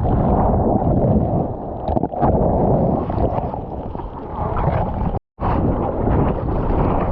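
Heavy wind buffeting the microphone over churning surf water, in gusts, cutting out completely for a split second about five seconds in.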